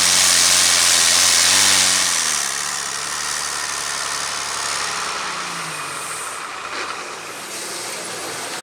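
Heavy modified pulling tractor's engine running loud, then dropping off about two seconds in and running on at a lower level.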